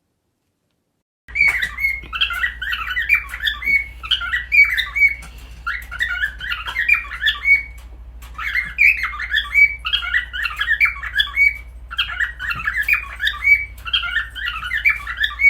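A pet bird chattering and squawking in quick runs of short calls, broken by brief pauses, over a steady low hum; it starts about a second in.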